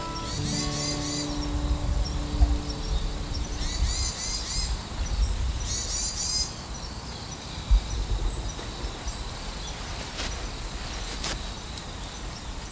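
Outdoor ambience: a small bird chirps in three short bursts of quick repeated notes over a low, gusty rumble of wind on the microphone. The last notes of guitar music fade out in the first couple of seconds.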